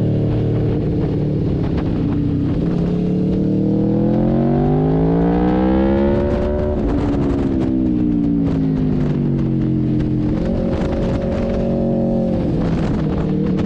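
Aprilia RSV4 1100 Factory's V4 engine heard from on board on track, its pitch climbing steadily as the bike accelerates through the gears, peaking about halfway, then dropping as it slows, and holding steadier near the end.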